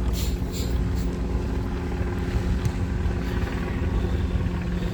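Helicopter running steadily, a low, even hum of evenly spaced tones, with a few light clicks in the first second.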